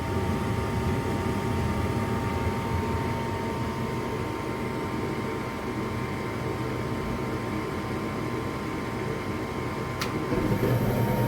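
Lennox gas furnace running during its start-up sequence: the fan gives a steady hum with a constant whine. Near the end a sharp click comes and the low rumble grows louder as the burners light.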